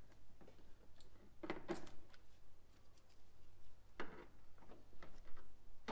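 Irregular clicks and light knocks of parts and hand tools being handled while fasteners are taken out, loudest in a cluster a couple of seconds in.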